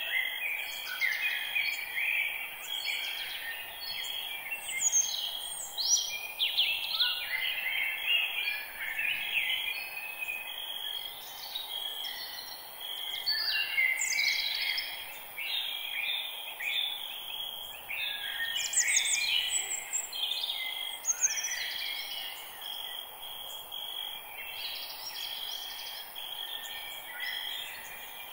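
Many songbirds chirping and singing at once in a dense, overlapping chorus, over a steady high hum and soft hiss.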